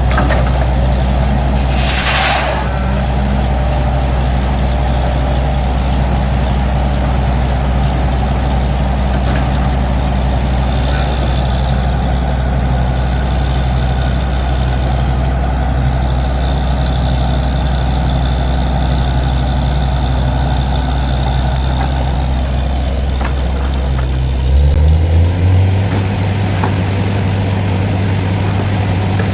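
Diesel engine of a truck-mounted borewell drilling rig running steadily under load, with a short hiss of air about two seconds in. Near the end the engine note steps up as its speed rises.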